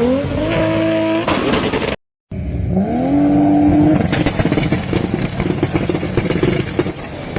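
Toyota Supra exhaust: the engine revs up and holds, then crackles; after a brief break a second rev rises and holds for about a second, and drops into a rapid string of exhaust pops and crackles on the overrun.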